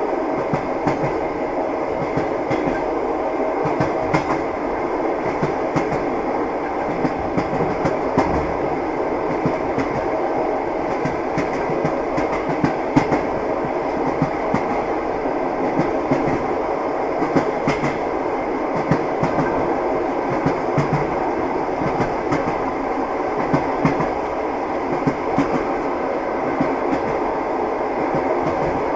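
A moving train's wheels clattering on the rails. It is a steady rumble broken by frequent, irregular knocks.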